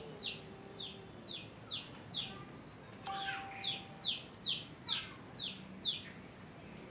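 A bird calling over and over with short, quick chirps that sweep downward, about two to three a second, with a brief pause near the middle. A steady high-pitched buzz runs behind it.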